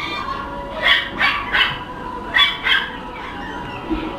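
Puppy yapping: five short high barks, three in quick succession about a second in and two more shortly after.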